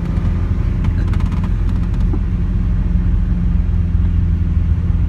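Lamborghini Aventador SV's V12 engine rumbling steadily at low speed, heard from inside the cabin, with a few faint ticks about a second in.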